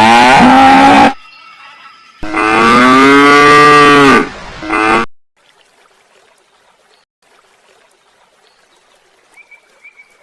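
Cow mooing: a long moo that ends about a second in, a second long moo of about two seconds, and a short one near the five-second mark, followed by a faint background.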